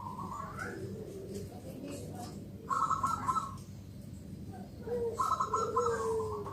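Bangkok-bred zebra dove (perkutut) singing: three short song phrases, each a rapid trilled coo followed by lower, gliding coo notes.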